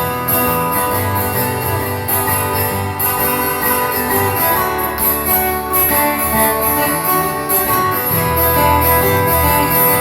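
Live instrumental intro of a song played by a guitar-led band, with steady sustained notes over a bass line.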